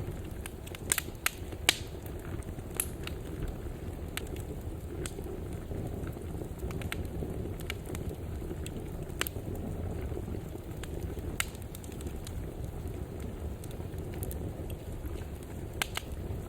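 Wood fire burning in a fireplace, with a steady low rumble of flame and scattered sharp crackles and pops. The loudest pops cluster about a second in.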